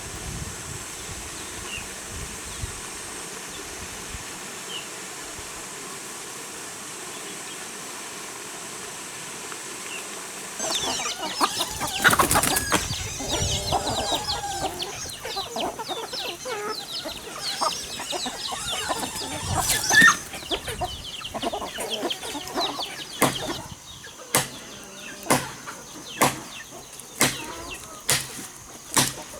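Chickens clucking and squawking with wings flapping, after a steady faint hiss; in the last few seconds, sharp knocks come about once a second.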